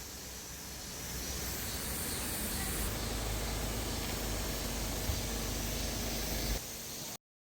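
Mountain stream water running, a steady rushing hiss, with a low rumble added from about three seconds in. It cuts off suddenly near the end.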